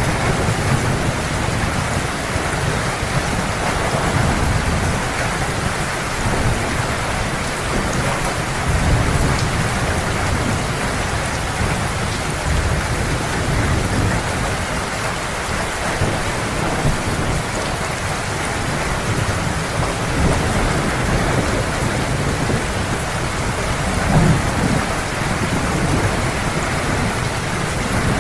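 Heavy rain falling steadily, with low rolling thunder rumbling underneath that swells slightly about three-quarters of the way through.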